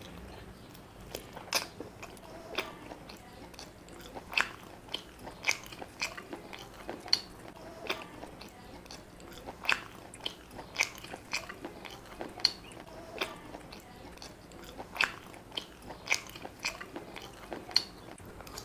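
Close-miked wet chewing and lip smacking while eating spicy chicken leg curry by hand, with sharp irregular smacks about once a second.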